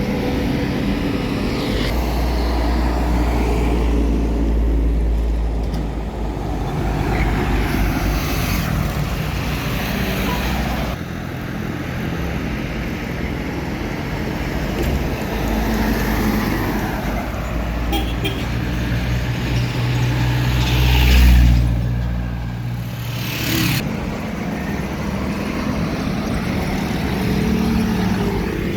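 Road traffic with trucks and cars passing close by: a continuous deep engine rumble that swells and fades as each vehicle goes past. The loudest pass comes about two-thirds of the way through.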